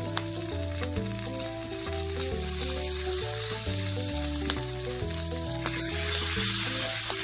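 Garlic, curry leaves and red chili sizzling in melted butter in a wok, with a steady hiss; about six seconds in a spatula starts stirring and the sizzle grows louder. Background music plays underneath.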